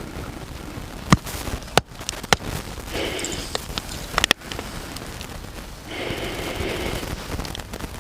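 Campfire burning, with a few sharp pops and crackles from the wood over a steady hiss, and a soft, hazy rustle twice, around three seconds in and again about six seconds in.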